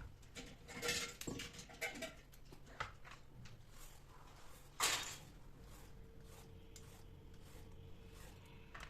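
Kitchen handling sounds: scattered light clicks and knocks of utensils and dishes, with one louder knock about five seconds in and a faint steady hum after it.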